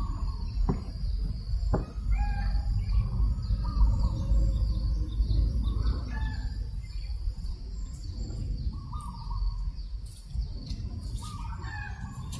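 Chickens calling, among them a rooster crowing several times, over a steady low rumble of wind on the microphone.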